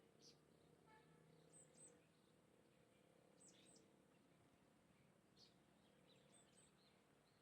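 Small birds chirping faintly: short, very high notes, often in quick pairs, repeating every second or two.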